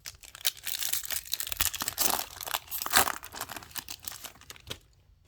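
A Topps Chrome trading-card pack wrapper crinkling and tearing as it is ripped open by hand: a dense run of irregular crinkles, loudest about three seconds in, stopping shortly before the end.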